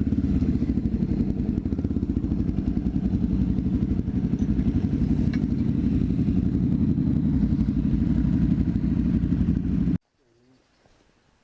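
Honda XR650L's air-cooled single-cylinder four-stroke engine running steadily with a dense, even pulse. The sound cuts off abruptly about ten seconds in, leaving near quiet.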